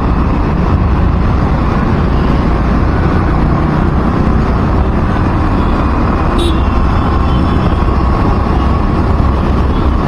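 Road traffic and vehicle noise heard while travelling along a city road: a steady, loud low rumble with no breaks, and a brief faint high tick about six seconds in.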